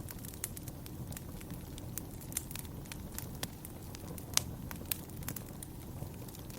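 Fire crackling in a fireplace: a steady low rumble of flames under scattered sharp pops and snaps, the loudest pop about four seconds in.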